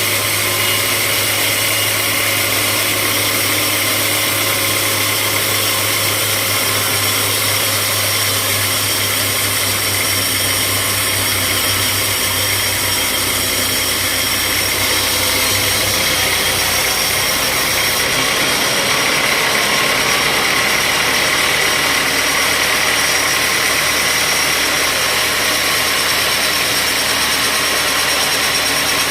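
Sawmill machinery running steadily: a continuous engine-like hum with a steady high whine over it.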